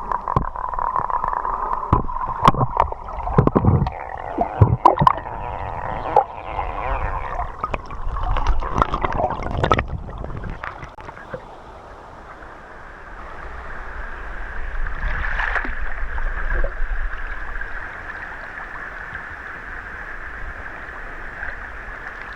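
River water splashing and gurgling around a swimmer, with irregular knocks and sloshes for about the first ten seconds, then a steadier, softer rush of flowing water.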